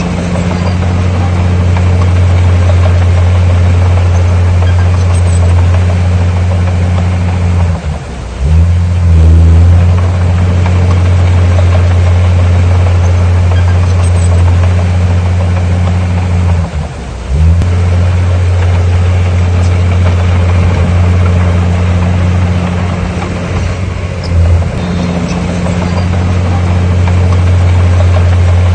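Heavy diesel engine of an earthmoving machine running steadily under work, its low note sagging and recovering twice, about eight and seventeen seconds in.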